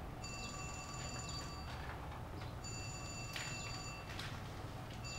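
A phone ringing: an electronic ring tone of several high steady notes that lasts about a second and a half and repeats every two and a half seconds, twice, with a third ring starting near the end.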